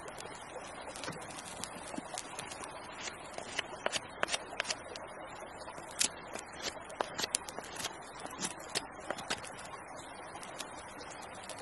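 Campfire crackling, with sharp irregular pops, several a second through the middle stretch, over a steady rushing background.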